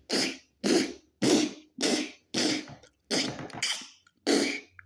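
A person making pickaxe sound effects with their mouth: a steady run of short, breathy "chh" bursts, about two a second, imitating picks striking hard stone.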